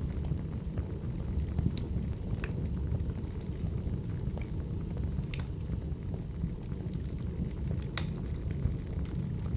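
Firewood burning: a steady low rumble of the fire with scattered sharp crackles and pops a few seconds apart.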